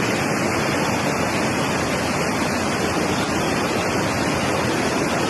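Floodwater rushing, a steady, unbroken loud rush of water.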